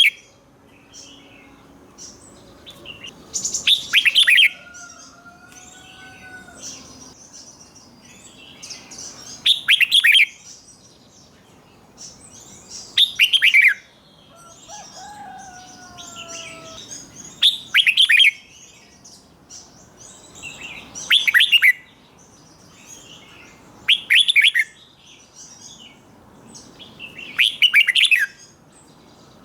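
Red-whiskered bulbul singing: seven loud, clear phrases, each falling in pitch, come every three to four seconds, with softer chattering between them.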